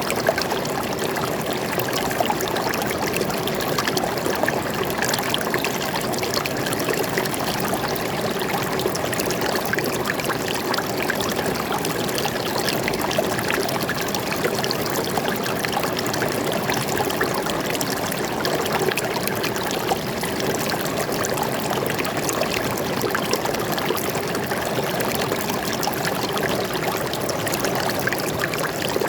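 Water flowing steadily over rocks in a forest stream, a continuous babbling and trickling.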